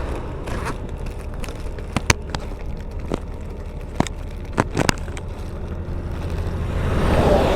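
Plastic bag over the camera crackling, with scattered sharp clicks against the microphone over a low steady rumble.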